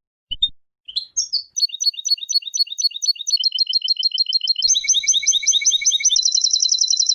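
European goldfinch singing: a couple of short call notes, then a fast twittering run of repeated high notes that thickens about two-thirds of the way through into a rapid trill.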